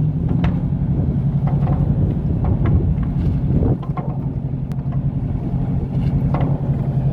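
A harbour launch's engine running steadily with a low hum. Its level drops a little about halfway through, and there are a few light knocks over it.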